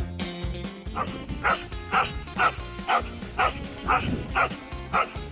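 Dog barking repeatedly, about two barks a second, over background music.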